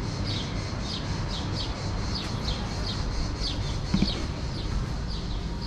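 A bird chirping over and over, short falling high notes about three a second, over a steady low rumble. A single thump about four seconds in.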